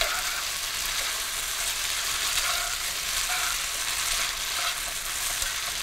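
Orzo, asparagus and bacon frying in bacon grease in a hot pan, a steady sizzle as the pasta is stirred and tossed with a utensil.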